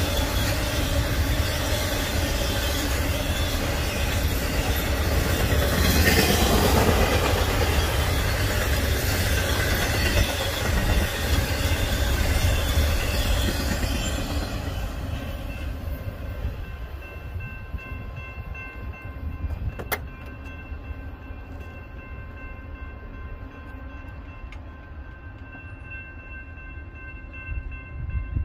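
A double-stack intermodal container train rolling past, its cars and wheels making a loud, even rumble. The noise fades away after about half the time as the end of the train goes by, leaving steady ringing tones from the grade crossing's warning bell.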